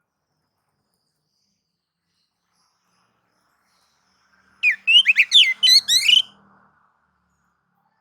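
Oriental magpie-robin (kacer) singing: a single short burst of rapid, sweeping whistled notes about halfway through, lasting under two seconds.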